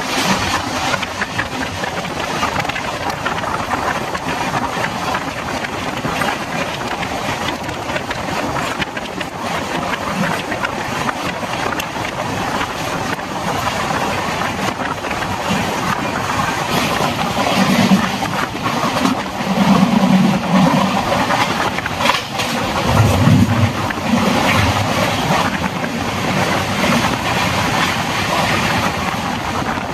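Moving passenger train running along the track: a steady rushing noise of the coaches in motion, with a few deeper swells about two-thirds of the way through.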